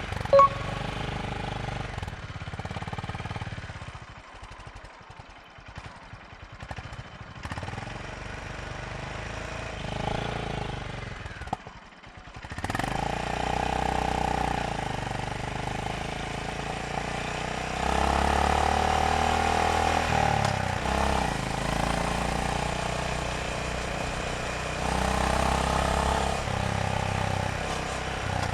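Motorcycle engine running under way, its pitch and loudness rising and falling with the throttle, with a sharp click about half a second in.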